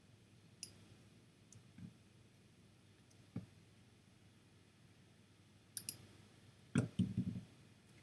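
Computer mouse clicks, a few scattered single clicks, then a louder cluster of short clicks and knocks about seven seconds in.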